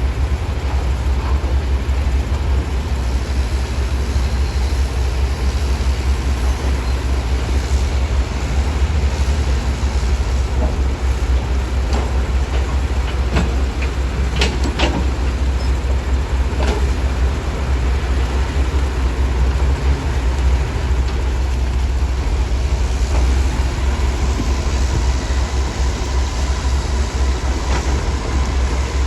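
Heavy diesel earthmoving machinery running steadily with a deep low rumble. A few sharp clanks come near the middle.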